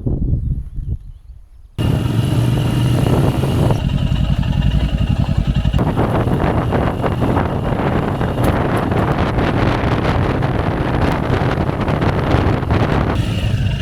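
Motorcycle engine running steadily with a low, even pulse. The sound falls away at the very start and cuts back in abruptly about two seconds in.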